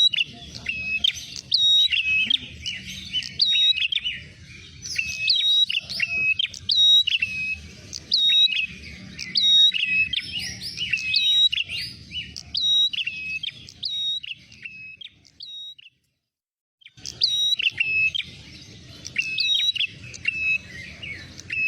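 Prenjak merah birds calling in quick, repeated high chirps, several notes overlapping, with a short silent break about three-quarters of the way through before the chirping resumes. The recording is a lure call for trapping this bird.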